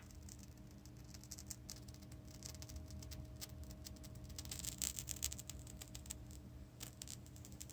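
PreSonus R65 studio monitor emitting faint, irregular crackling over a steady low hum, denser around the middle: a noise fault that shows up after the speaker has been on for about an hour.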